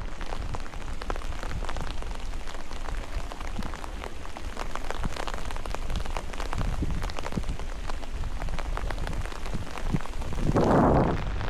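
Steady rain, with many separate drops striking close by over a low rumble. Near the end there is a brief, louder rush of noise.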